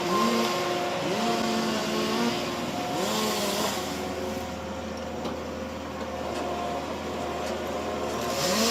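A machine's engine revving up and easing off again and again, the pitch rising about once a second at first. It then runs steadier and a little quieter, and revs up again near the end.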